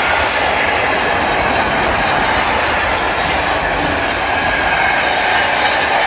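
Container wagons of an intermodal freight train rolling past over a level crossing: a loud, steady rush of wheel and rail noise with clickety-clack, as the last wagons go by.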